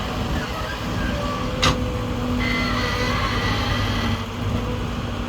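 A tractor running steadily, with one sharp click about one and a half seconds in and a higher whine joining shortly after.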